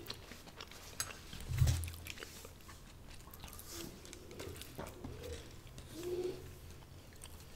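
A person chewing a mouthful of food with the lips closed, giving soft wet mouth clicks, with a soft low thump about a second and a half in and a brief closed-mouth hum near the end.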